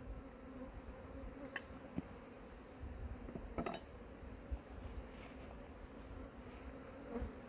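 A colony of honeybees buzzing steadily around an opened hive, a low even hum, with a few light clicks about one and a half, two and three and a half seconds in.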